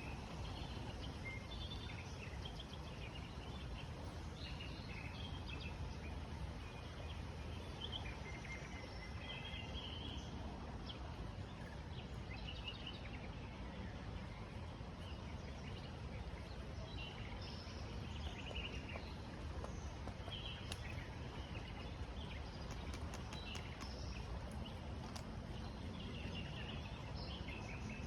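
Small birds chirping and calling on and off, with short chirps scattered throughout, over a steady low rushing background noise.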